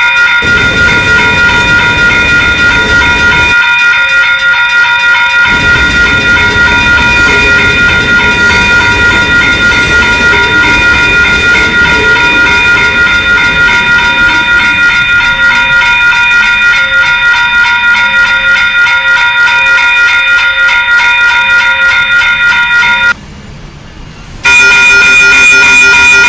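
A train passing, a rumbling noise under a loud, steady chord of tones held at several pitches. The rumble drops out briefly twice, and the whole sound cuts off for about a second and a half near the end.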